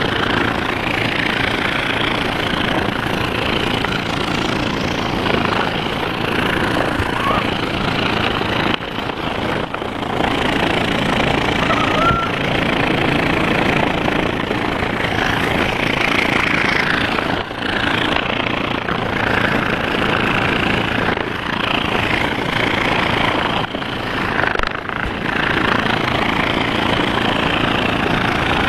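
Scroll saw running, its motor and reciprocating blade making a steady mechanical noise, with a few brief dips along the way.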